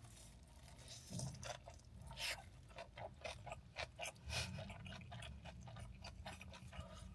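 A person chewing gimbap (seaweed rice roll filled with tuna and gat mustard-leaf kimchi) close to the microphone: a run of small, irregular crunches and mouth clicks.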